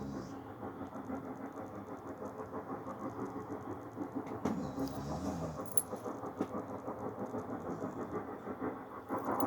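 A continuous low rumbling drone with a fast, rough flutter, of a source the recorder cannot identify, heard from the sky. A few faint clicks sound over it.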